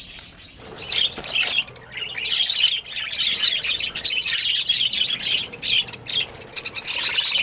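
Budgerigars chattering: a busy, continuous stream of quick high chirps and warbles, with louder clusters coming and going.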